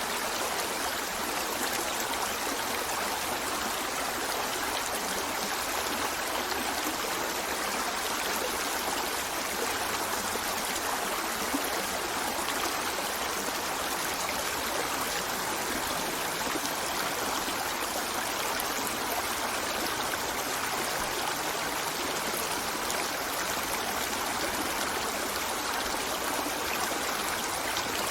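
River water flowing and babbling over stones, a steady rushing and trickling that holds even throughout.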